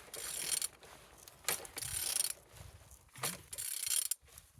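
Removed TU5JP4 1.6 16-valve petrol engine being turned over by hand with a wrench, in three short strokes of ratcheting and mechanical noise. It turns freely, a sign that the engine is not seized.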